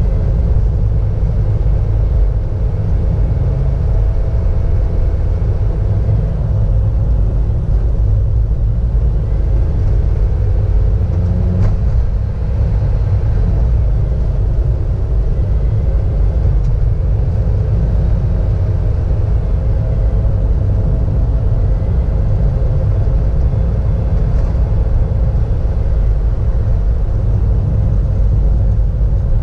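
A car driving, heard from inside the cabin: a steady low rumble of engine and road noise with a faint engine hum above it.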